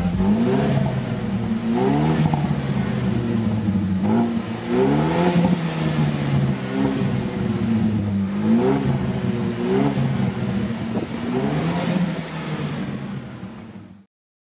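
Opel Astra J OPC's turbocharged four-cylinder engine revving again and again, its pitch climbing and dropping with each blip, fading out near the end.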